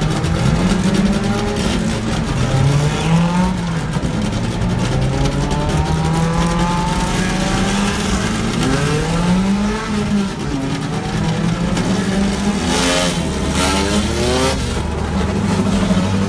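Racing car engines revving, their pitch climbing and dropping again and again as they shift gears. A louder rush of noise comes about three quarters of the way through.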